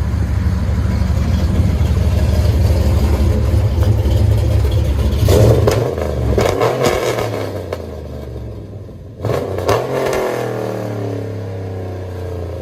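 Cammed 5.7 Hemi V8 (392 stroker) in a Ram 1500, running through long-tube headers, high-flow cats and Flowmaster Super 44 true-dual side-exit exhaust. It idles with a deep rumble and is revved twice, about five and about nine seconds in, the pitch falling back each time before it settles to idle.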